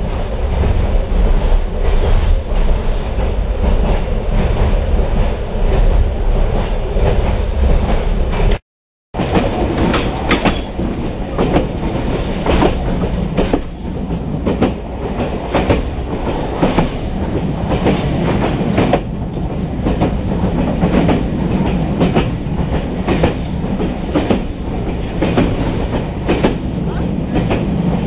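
Passenger railroad car rolling along the track, heard from aboard: a steady low rumble of wheels on rail with frequent sharp clicks and clacks. The sound drops out for about half a second about nine seconds in.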